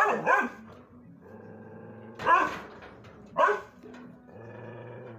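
A dog barking a few times, in short separate barks.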